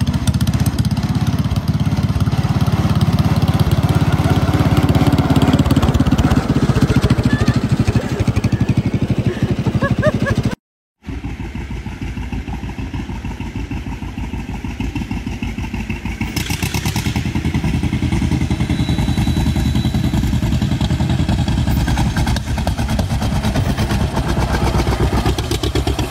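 Tractor engine running steadily under way, with a fast firing beat. About ten seconds in the sound cuts out for a moment and comes back a little quieter.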